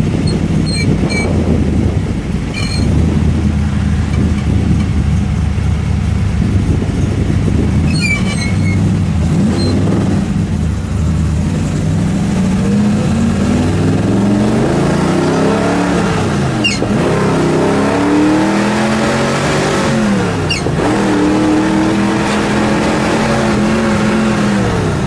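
The dealer-built 390 cubic-inch AMC V8 of a 1967 Rambler Rebel drag car, heard from inside the cabin. It runs at low revs for the first half. Then, under acceleration through the four-speed manual, the engine note climbs, falls back at a gear change, climbs again, falls at a second change, then climbs and holds before easing off near the end.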